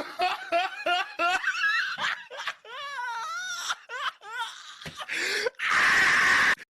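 High-pitched laughter in quick, wavering bursts, ending in a loud hissing burst about a second long that cuts off suddenly.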